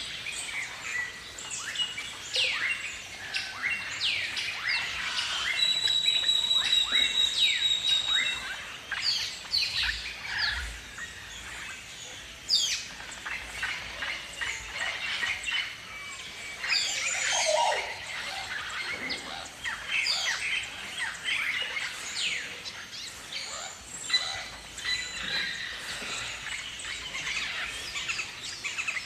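Many birds calling outdoors: a dense, overlapping stream of short, high chirps and sweeping calls, with one steady high note held for about two seconds roughly six seconds in.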